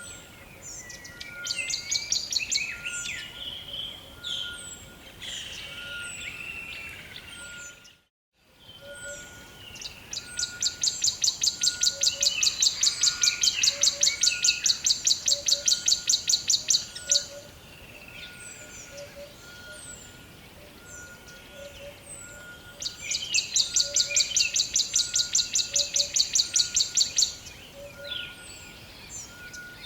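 Rainforest ambience of many birds chirping, with a steady call repeating about once a second. A loud, fast-pulsing trill comes in twice for several seconds. The sound drops out briefly about eight seconds in.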